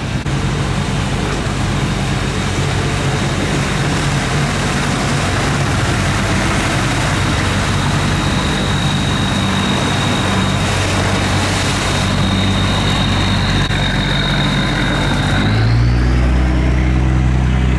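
Boat engine running steadily under way, with a thin high whine over it. About fifteen seconds in it revs up, and the whine rises with it.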